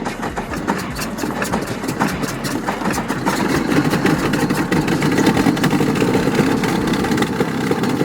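A GAZ M-20 Pobeda's four-cylinder flathead engine being cranked, catching and firing unevenly without settling into a steady run. The engine has stood unstarted for about twenty years.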